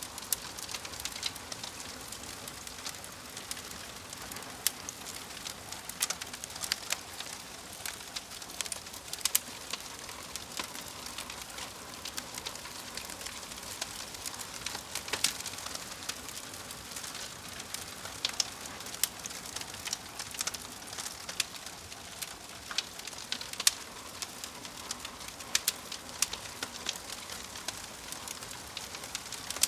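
Wood fire crackling: irregular sharp pops and snaps of burning logs over a steady hiss.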